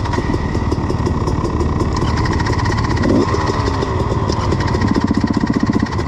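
Dirt bike engines running, idling with short blips of the throttle, one rising rev about three seconds in.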